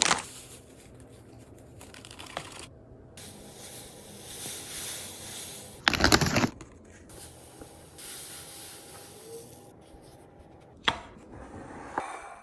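Snack packaging and containers being handled: soft rubbing and rustling, with one short, louder burst about six seconds in and smaller knocks near the end.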